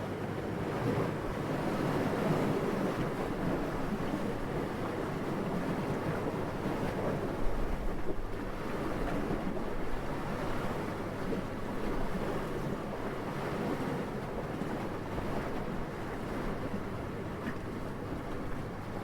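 Steady wind, rising and easing in slow gusts, with a brief low thump about seven and a half seconds in.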